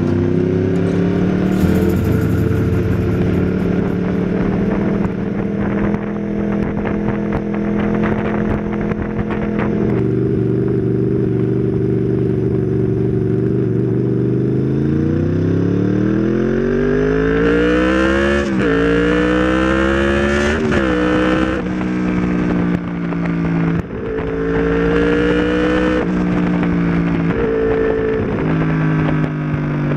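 Honda VFR800 VTEC's V4 engine under way, holding steady revs, then revving up from about halfway. Two quick upshifts drop the pitch sharply each time before it settles back to steady running.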